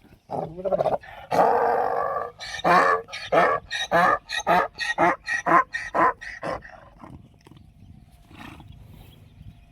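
Donkey braying: a long drawn-out call about a second in, then a run of quick hee-haw pulses, about two to three a second, that fades out about seven seconds in.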